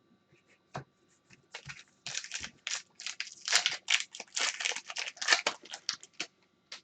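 Trading cards being handled and slid against each other: a quick run of rustling, scraping strokes from about a second and a half in until near the end.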